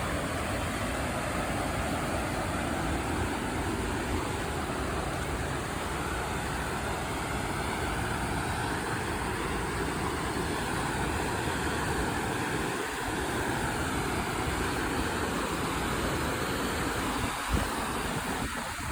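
Creek water running, a steady rush of noise, with a brief knock near the end.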